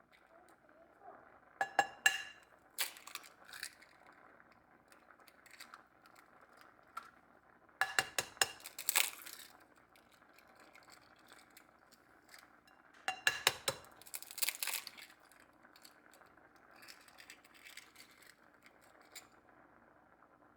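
Kitchen handling sounds: dishes and glassware clinking in four short clusters of sharp knocks, with some crinkling, over a faint steady background.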